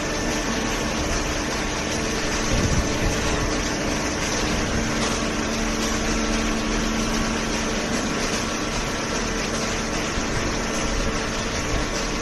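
Cardboard baler's hydraulic pump unit running steadily, a continuous mechanical hum with a few steady tones; an extra steady tone joins from about five seconds in to about nine seconds.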